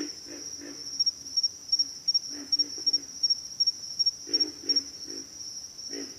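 Pig frogs calling in short, low grunts, several in quick succession in runs, over a steady high-pitched insect trill.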